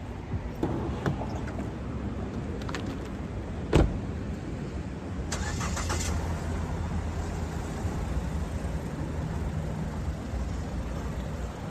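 Car with a steady low rumble, as of an engine running. A single sharp thump about four seconds in, and a short rustling hiss a couple of seconds later.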